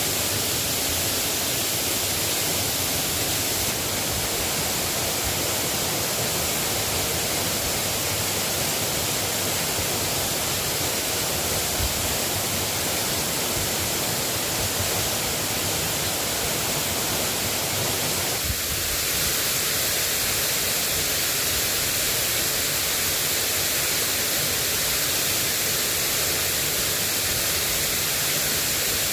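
Steady hiss of drizzling rain falling, even and unbroken.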